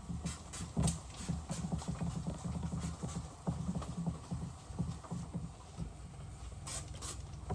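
Wet sandpaper rubbed by hand back and forth over a plastic headlight lens, an uneven scuffing with scattered light clicks.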